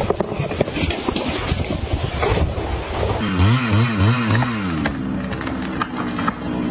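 An engine revving up and down in quick surges, about three a second, then settling to a steady run, over a clatter of knocks in the first few seconds.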